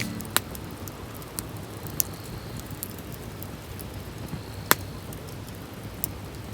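Wood campfire crackling, with irregular sharp pops, the loudest about half a second, two seconds, nearly five seconds and six seconds in.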